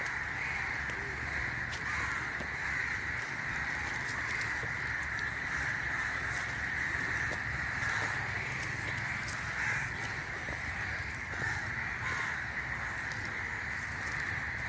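Forest ambience: crows cawing over a steady high-pitched chorus that never lets up, with occasional sharp clicks.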